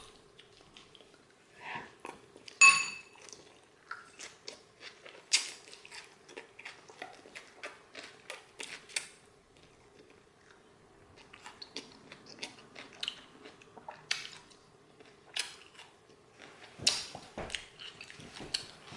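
Close-up chewing and crunching of raw salad, with a metal fork scraping and clinking against the bowl; one clear ringing clink comes about three seconds in. A faint steady hum runs underneath.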